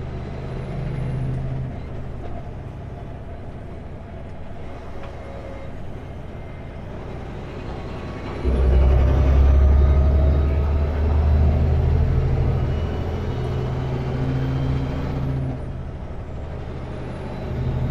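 Kenworth W900L semi truck's diesel engine heard from inside the cab, running low and steady, then pulling hard and much louder about halfway through with its pitch climbing as the truck gets under way, easing back a few seconds later and picking up again near the end.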